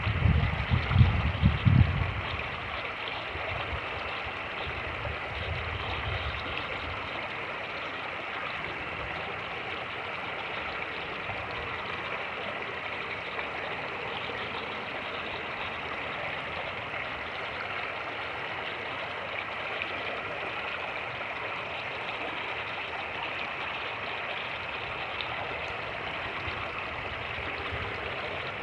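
Fast-moving creek water rushing steadily over rapids. In the first two seconds a loud irregular low rumble of wind buffeting the microphone dies away.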